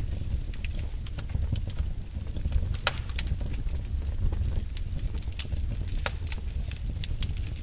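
Fire crackling in a fireplace: irregular sharp pops and snaps over a steady low rumble, with louder pops about three and six seconds in.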